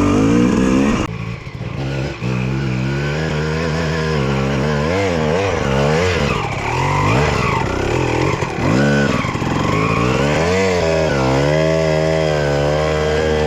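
Two-stroke dirt bike engine being ridden, revving up and down with the throttle. It drops off briefly about a second in.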